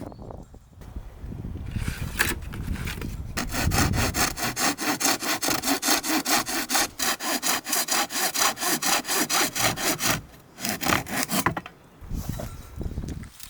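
Rapid, even rasping strokes, about four a second, for roughly seven seconds; they pause briefly near the end and then a few more follow.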